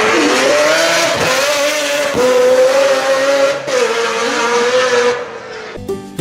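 A tuned car engine running hard at high revs, its pitch climbing, holding and dipping as it is driven. Near the end it cuts off and guitar music begins.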